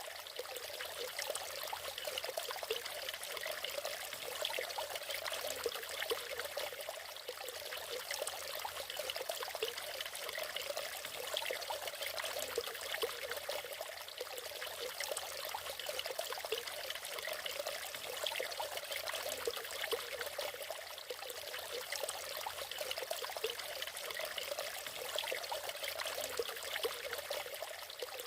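Water of a natural waterfall splashing and trickling, a steady, even rush with a bubbling texture.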